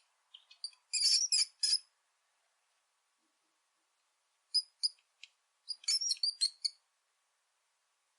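Rat squeaking: quick clusters of short, high-pitched squeaks. One burst comes about a second in, and two more follow between about four and a half and seven seconds, with silence between them.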